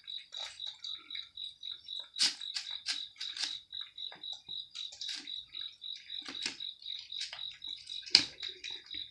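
Eating sounds: irregular crunchy chewing and crackling clicks, the loudest near the end. Under them a steady high-pitched chirp repeats about four to five times a second.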